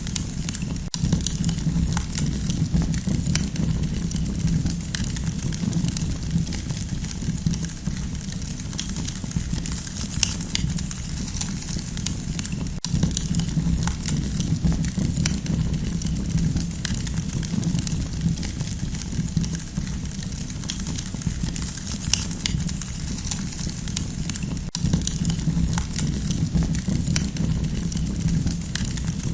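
Campfire crackling: frequent small sharp pops and snaps over a steady low rush of the burning fire.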